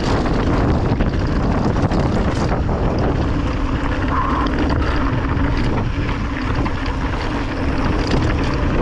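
Wind buffeting the microphone during a fast ride, over a steady low rumble, with a few scattered knocks and rattles.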